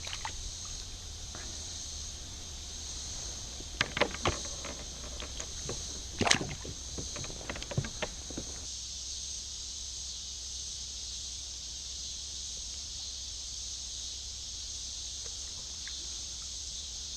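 Kayak on the water: a cluster of knocks and splashes from the boat and paddle between about four and eight seconds in, over a steady high insect drone.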